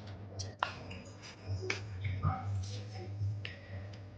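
Close-up eating sounds from someone eating chicken wings: irregular sharp clicks of chewing and lip smacks over a steady low hum and faint background voices.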